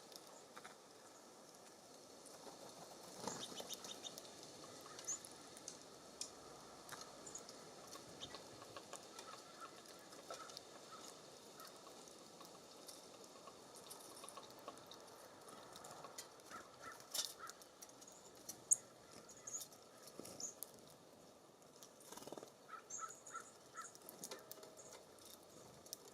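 Small songbirds chirping and calling at a feeder, faint, with short runs of repeated notes and scattered sharp clicks and taps.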